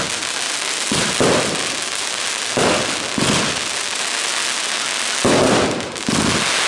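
Aerial fireworks going off: several booming bursts about a second or two apart over a continuous dense crackling of crackle stars.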